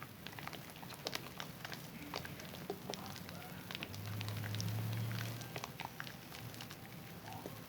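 Wet Zest bar soap being lathered in the hands, with lots of small, irregular crackling clicks. A low hum comes in for a second or so about halfway through.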